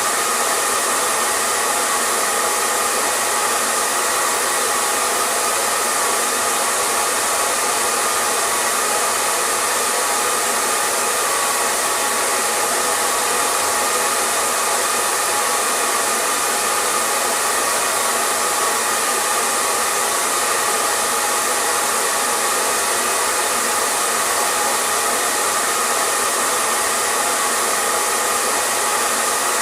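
Hair dryer running continuously: a steady, unchanging rush of air with a faint motor hum, used as white noise for sleep.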